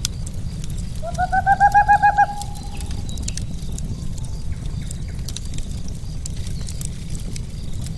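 Wood fire crackling with sharp pops over a steady low rumble; about a second in, a bird gives a quick run of about ten short rising hooting notes.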